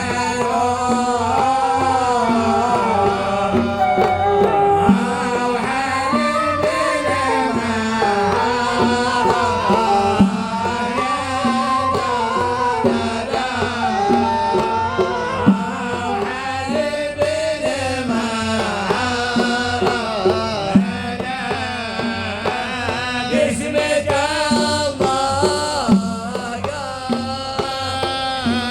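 Arabic-style singing with a wavering, ornamented melody over steady hand-drum percussion.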